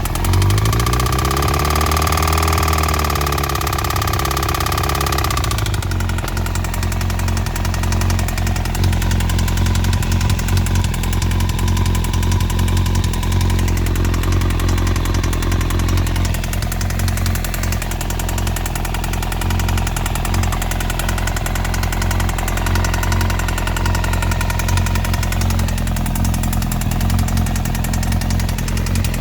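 2002 Yamaha YZF-R1 inline-four engine running, its pitch rising and falling once in the first few seconds and then settling to a steady idle with a top-end rattle and knock. A new cam chain tensioner has not cured the rattle, and the EXUP valve and exhaust manifold bolts have been checked.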